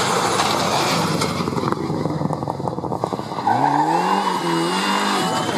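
Rally car engine under hard acceleration. A rushing noise with crackles gives way, about halfway through, to a sharply rising engine note that holds at high revs and dips briefly near the end at a gear change. A faint thin whine climbs alongside it.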